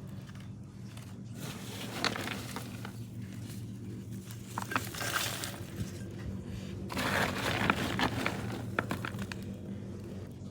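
Chunky orchid potting mix (bark, charcoal pieces and perlite) being scooped and pushed into a pot around the plant by hand: rustling, crunching scrapes with small clinks, coming in a few bursts.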